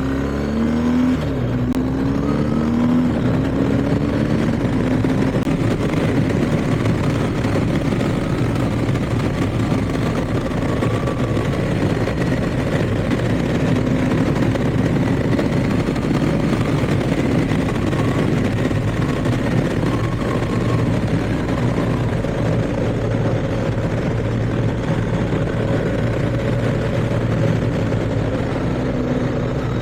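BMW R1250GS boxer-twin engine accelerating through the gears near the start, its pitch climbing and dropping at each upshift, then holding a steady cruise under heavy wind and road noise; the revs rise a little again near the end.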